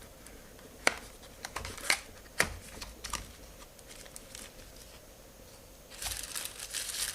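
Packaging being handled while a small USB humidifier is unboxed: a few sharp clicks and taps of plastic and cardboard, then a crinkling rustle near the end.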